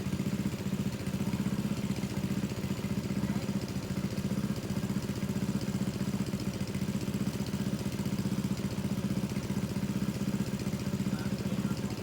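Water-pump engine running steadily at a constant speed, pumping water out of a fish pond.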